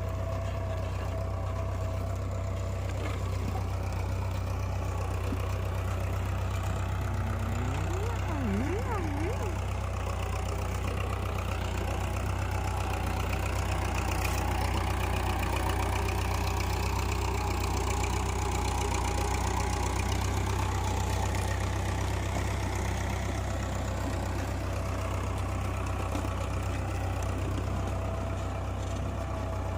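Tractor engine running steadily with a deep, even rumble.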